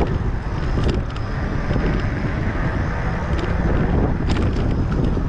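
Wind buffeting the microphone while riding, a steady low rumble with traffic noise mixed in.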